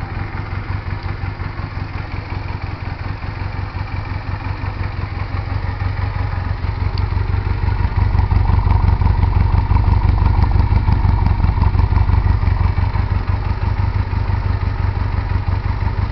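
Honda Rebel 125's air-cooled two-cylinder engine running at a low, idle-like speed through an exhaust with drilled baffles, its exhaust beat an even low pulse. It gets louder about halfway through and stays louder.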